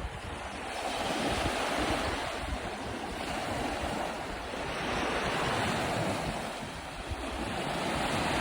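Lake waves washing onto the shore, swelling and easing every few seconds, with wind.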